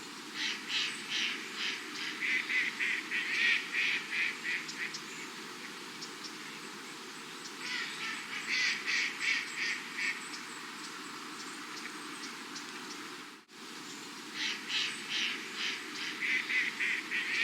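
Ducks calling in rapid series of short quacks, several to the second, in three bouts with pauses between, over a steady background hiss.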